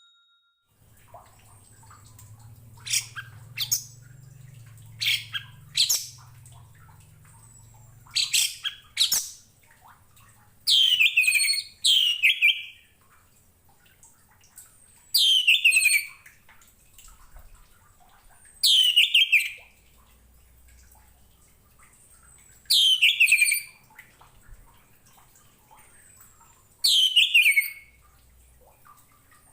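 Orange-headed thrush (anis merah) singing: short sharp call notes, mostly in pairs, for the first ten seconds or so, then song phrases about every four seconds, each about a second long and dropping in pitch at its end.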